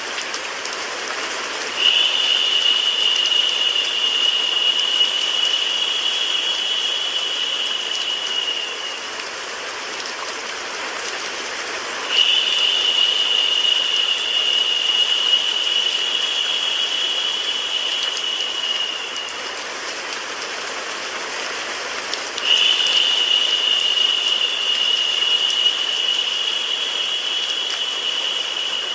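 Recorded rain sound mixed with white noise: a steady, even hiss. About every ten seconds a high, narrow hiss comes in suddenly on top of it, lasts about seven seconds and fades out, three times in all, like a repeating loop.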